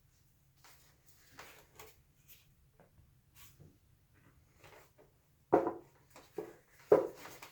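Painting supplies handled on a work table: faint taps and rustles, then two louder knocks a little over a second apart, with a lighter one between them, like containers being set down.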